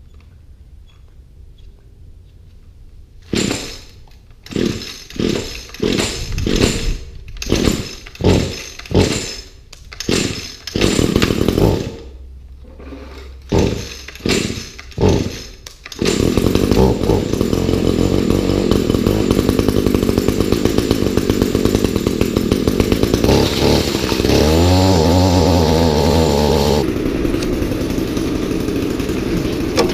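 A gas string trimmer being pull-started from cold after sitting for about a month: about a dozen tugs on the starter cord, and then at about the halfway point the engine catches and keeps running, with a brief change in pitch a few seconds later.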